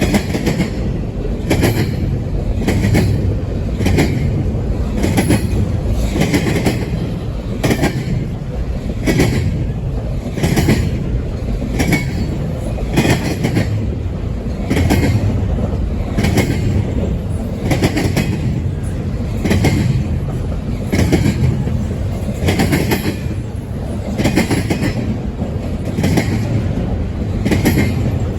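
Double-stack container train rolling past, its car wheels clicking over the rail joints in a steady rhythm a little faster than once a second, over a continuous low rumble.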